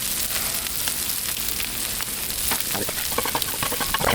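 Sausage and eggs frying on a Blackstone flat-top griddle: a steady sizzling hiss with many small crackles.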